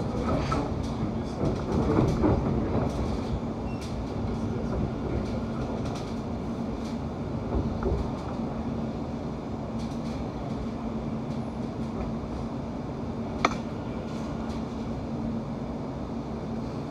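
Cabin noise of a London Overground Class 710 electric train running between stations: a steady rumble of wheels on rail under a constant hum, with scattered light clicks and one sharp click about three-quarters of the way through.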